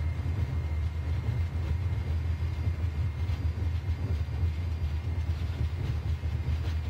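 Airbus A340 on its takeoff roll at takeoff thrust, heard from the cockpit: a steady deep rumble of the four engines and the wheels on the runway.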